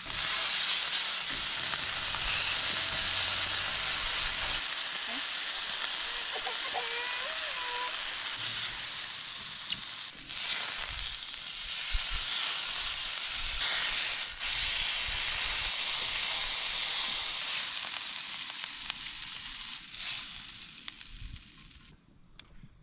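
Food frying for a camp dinner: a steady sizzle that fades away near the end.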